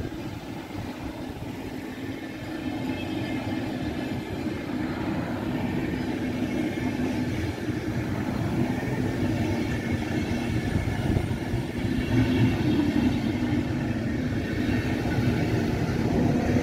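A train approaching, its running rumble growing steadily louder, with a faint high whine above it.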